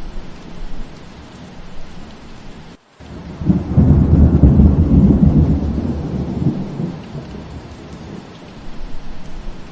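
Steady rain with a roll of thunder that starts about three and a half seconds in, rumbles deep and loud for a few seconds, then fades. The sound drops out for a moment just before the thunder.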